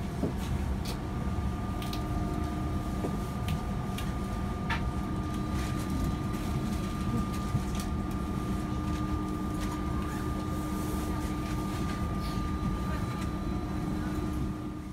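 Steady low rumble of a moving passenger train heard from on board, with a constant hum and a few light clicks and knocks; it drops away at the very end.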